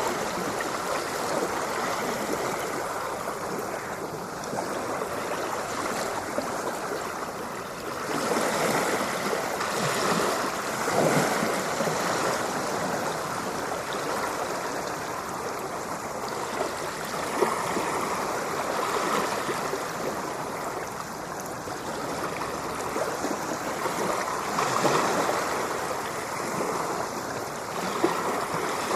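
Ocean surf: a continuous wash of water with a swell rising every few seconds.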